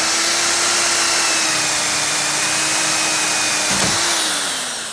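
Electric drill running at full speed, drilling out a rivet, a steady high whine that slows and winds down near the end.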